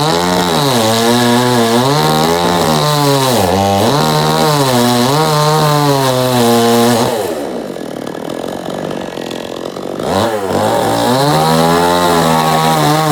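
Chainsaw engine running hard while cutting wood, its pitch dipping and recovering as the chain bites. About seven seconds in it falls back to a quieter, lower run for roughly three seconds, then revs up and cuts again.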